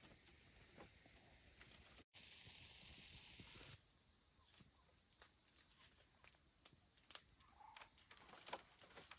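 Faint outdoor ambience: a steady high insect drone with light hiss. A short burst of louder hiss comes about two seconds in, and scattered light taps grow more frequent near the end.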